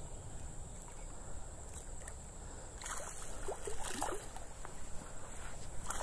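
A hooked smallmouth bass thrashing and splashing at the surface as it is reeled in, with a run of short splashes from about three seconds in over a steady low rush.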